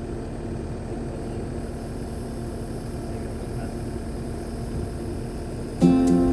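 Skid steer diesel engine idling steadily. Strummed acoustic guitar music starts suddenly near the end.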